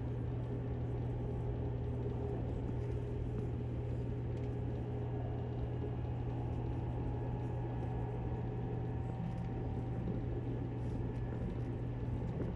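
Cabin noise of a JR Kyushu 783 series electric train running along the line: a steady low hum with an even running noise over it, unchanging throughout.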